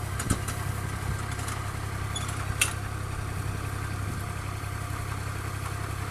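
Combine harvester's diesel engine idling steadily, with two sharp knocks, one near the start and one about two and a half seconds in.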